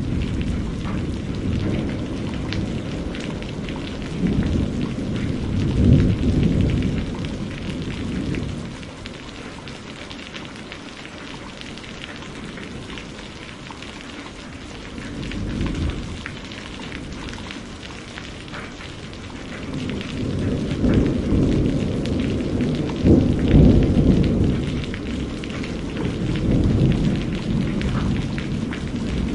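Steady rain with rolling thunder: low rumbles swell and fade several times, loudest about six seconds in and again in the last third, with a quieter stretch of rain alone in between.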